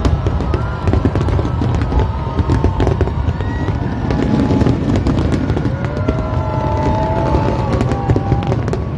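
A dense barrage of aerial fireworks bursting in rapid succession, with crackling and a continuous low rumble. Music with held melodic notes plays underneath.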